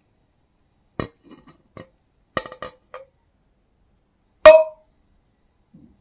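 Hardened wax coating on slime cracking: a run of sharp, separate cracks with silence between them, a small cluster about two and a half seconds in, and the loudest crack, with a brief ring after it, about four and a half seconds in.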